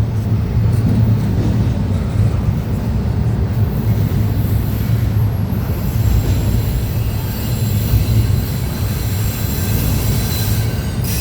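Freight train rolling past with a steady low rumble of wheels on rail, and faint high-pitched wheel squeal coming in over the second half.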